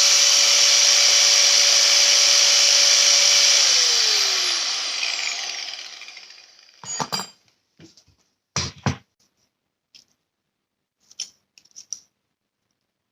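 Handheld electric power tool running at steady speed, then switched off about four seconds in and winding down over a couple of seconds. A few sharp knocks and clinks follow, two of them loud and close together near the middle, then light ticks.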